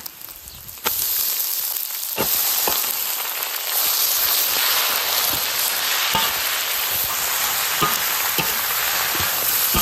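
Pork frying in hot oil in a large iron wok, a steady loud sizzle. About a second in, whole spring onions and garlic sprouts go into the oil and the sizzle jumps up sharply, with occasional short clicks as the metal spatula stirs.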